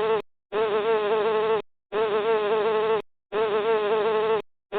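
A bee buzzing in a string of hums about a second long, each broken off by a short pause. The buzz has a steady pitch that wavers slightly.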